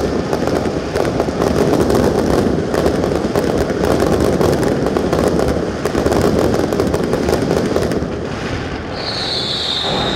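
Aerial fireworks display: a dense, continuous crackle of many small bursts and pops. Near the end a high whistle slides down in pitch.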